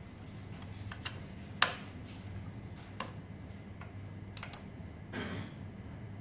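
A few sharp, separate clicks and taps of tools and metal parts during a scooter brake adjustment, the loudest about a second and a half in, with a short rustle near the end over a steady low hum.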